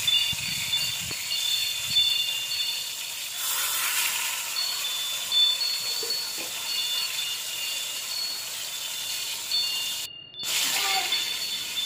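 Eggplant omelette frying in shallow oil in a stainless steel pan: a steady sizzle, with faint high thin tones coming and going over it. The sound drops out for a moment about ten seconds in.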